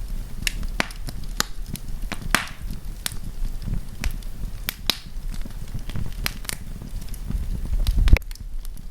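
Wood campfire crackling, with irregular sharp pops and snaps over a steady low rush of flame. A louder pop comes about eight seconds in.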